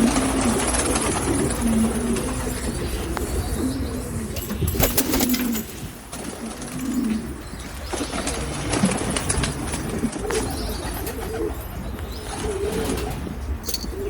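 Domestic pigeons cooing repeatedly, several low coos overlapping, with brief scuffling sounds about five seconds in and again near the end.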